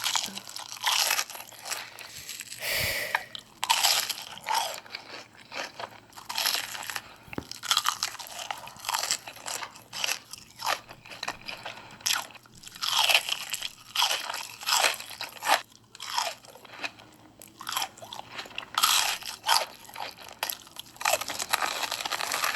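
A person eating crunchy hot Cheetos close to the microphone, mukbang style: repeated crunching bites and chewing, coming irregularly with short pauses between mouthfuls.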